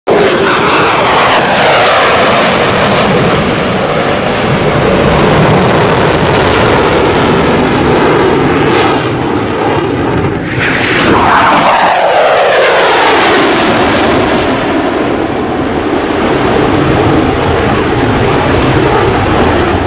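Fighter jet engines running loud, with two flybys in which the pitch falls steadily as the aircraft passes: one right at the start and another about ten seconds in.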